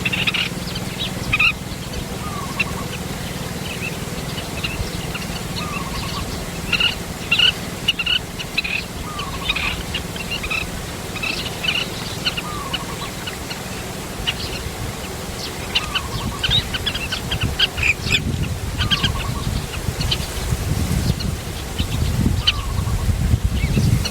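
Birds chirping: many short high chirps, with a lower, short falling call repeated about every two seconds, over a low steady rumble that gets louder toward the end.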